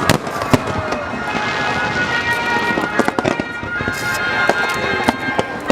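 Fireworks going off: a rapid run of pops and bangs, with a crackling shower in the middle, over sustained high steady tones.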